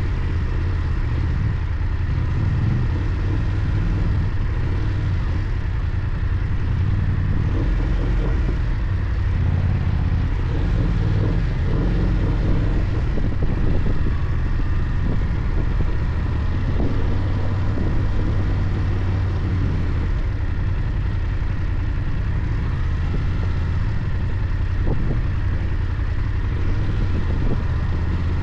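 BMW F 800 GS parallel-twin motorcycle engine running steadily under way, with a low rumble and steady wind and road noise.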